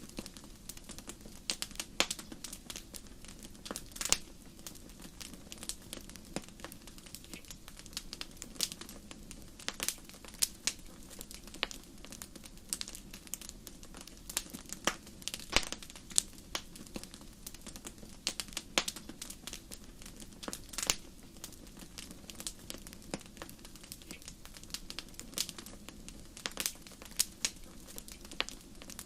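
Fire in a fireplace crackling: irregular sharp pops and snaps, some louder than others, over a low steady background of the flames.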